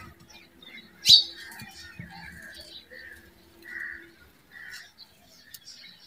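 Birds chirping in short calls about once a second, with one loud sharp chirp about a second in. A faint steady hum runs underneath and stops about two-thirds of the way through.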